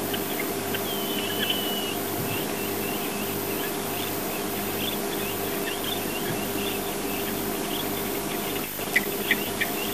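Bush ambience: scattered short, high chirps and twitters, with a drawn-out whistled call about a second in, over a steady low hum. A few sharp clicks come near the end.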